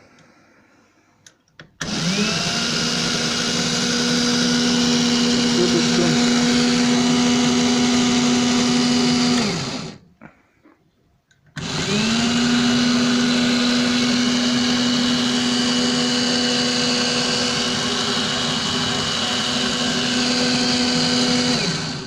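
12-volt cordless drill-driver motor, mounted as a drill press and switched by a separate power button, running twice: about eight seconds, a short pause, then about ten seconds. Each run rises to a steady whine and winds down when switched off.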